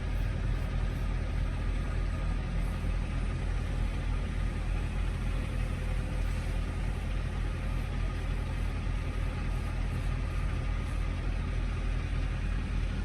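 Idling truck diesel engine: a steady low drone that does not change.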